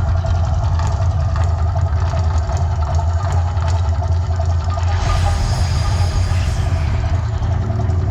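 Loud, steady deep rumble from the Mirage volcano show's eruption sound effects, with a faint steady higher tone above it.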